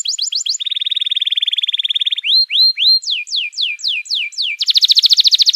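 Songbird song for bird training: a fast run of repeated high notes turns into a buzzy trill, then three rising slurred whistles and a series of falling slurred notes, and near the end a fast, loud trill.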